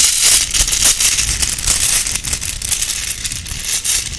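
Small decorative bones rattling and clicking against each other as they are shaken and handled, a dense run of many tiny hard clicks close to the microphone.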